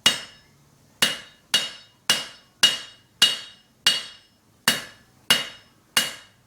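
Hammer blows on an anvil, about ten strikes at roughly two a second with a short pause midway. Each blow rings out with a clear metallic tone and fades.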